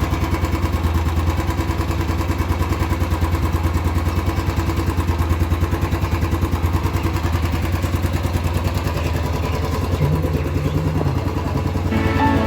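Royal Enfield Classic 350 BS6 single-cylinder engine idling, its exhaust giving a steady, even thump.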